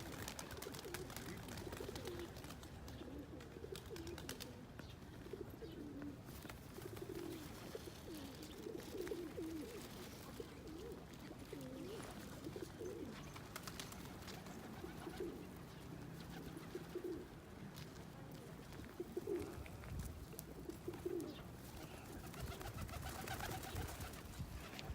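A flock of pigeons cooing, low rolling coos overlapping and repeating throughout, with scattered faint clicks.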